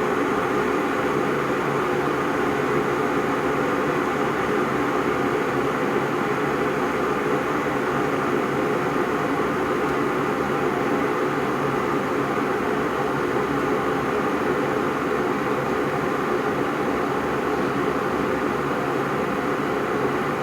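IRIT IR-1360 electric kettle heating water toward the boil: a steady rushing noise of water bubbling and hissing against the heating element.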